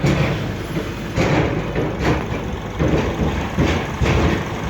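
Toyota 1NZ-FE 1.5-litre four-cylinder engine running smoothly and evenly, with several short swells in level.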